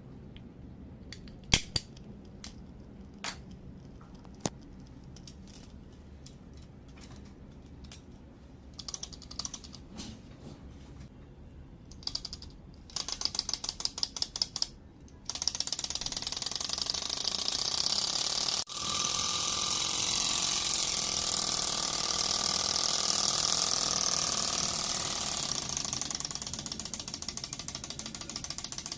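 Small model engine: scattered clicks as it is handled, then a couple of seconds of rapid, even clicking as it is turned over. About halfway through it catches and runs steadily.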